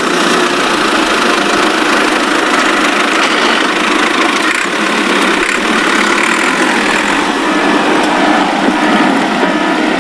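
A vehicle engine running steadily, with no change in pitch.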